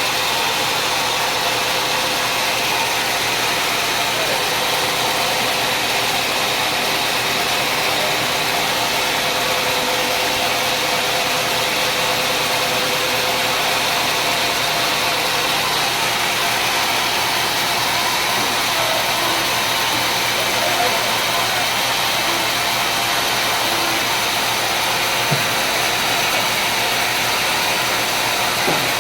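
Sawmill machinery running steadily, a constant unbroken machine noise.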